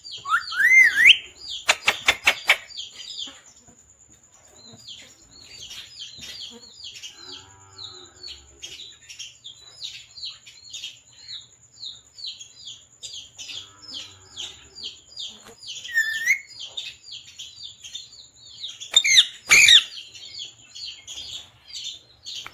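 Pet parrot chirping: a long run of short, high chirps, about three a second, with louder, harsh calls at the start and again near the end.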